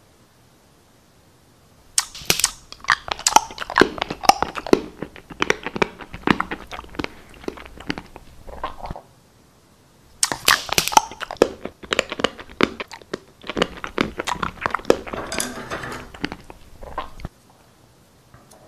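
Close-up crunchy chewing and biting, in two stretches of about seven seconds, each starting and cutting off abruptly.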